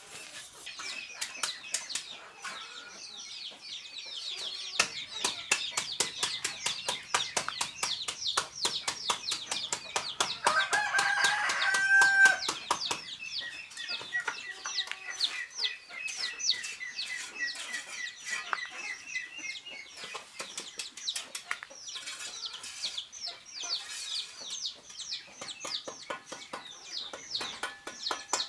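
Chickens clucking and chirping constantly, with a rooster crowing once, loudest about eleven to twelve seconds in.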